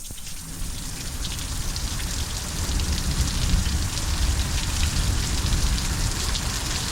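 Heavy thunderstorm downpour: a dense rush of rain with many separate drop hits close to the microphone, growing louder over the first few seconds and then holding steady.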